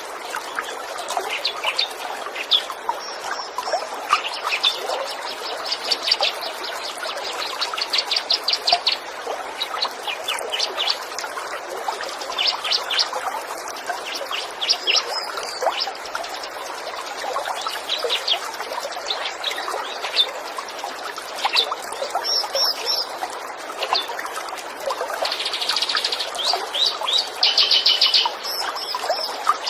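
Small birds chirping, with bursts of rapid high trilled notes, over the steady trickle of running water.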